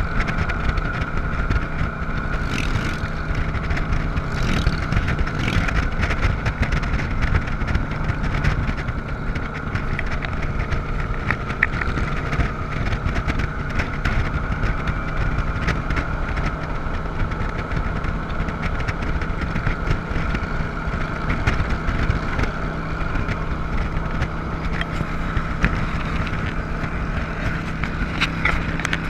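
Motorcycle engine running at a steady speed while riding, with wind noise; a few brief rushes of noise a few seconds in.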